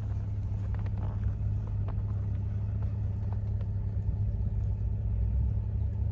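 Pickup truck's steady low engine and road rumble.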